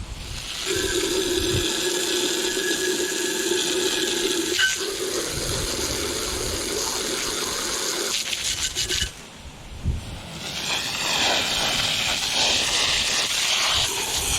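Water spraying from a garden hose onto a rusty engine part, a steady hissing spray that cuts out around nine seconds in and starts again about a second and a half later.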